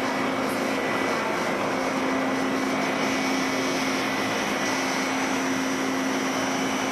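Steady mechanical drone with a low hum and faint higher whines, unchanging throughout.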